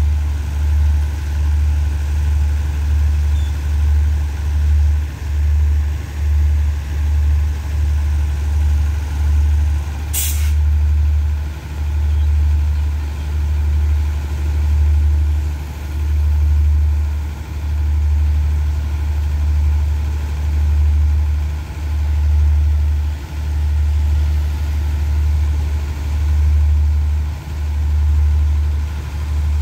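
Stationary diesel passenger train idling with a low rumble that swells and dips unevenly. A short sharp hiss of released air, like an air brake, comes about ten seconds in.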